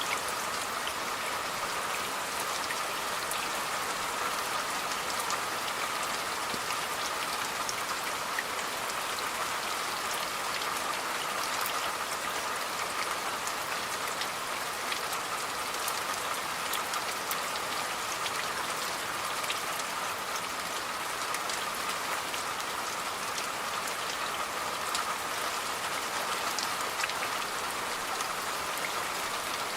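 Steady rain falling, a constant even hiss scattered with many small drop impacts.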